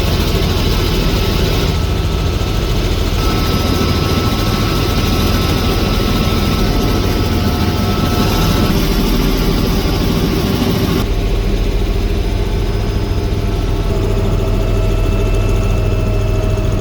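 Helicopter in flight: steady rotor beat and engine noise with thin whining tones above it. The sound changes abruptly about eleven seconds in, the higher hiss dropping away.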